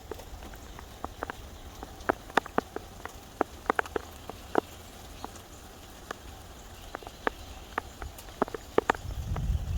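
Scattered, irregular sharp taps of raindrops striking a hard surface, over a low wind rumble on the microphone that swells into a gust near the end.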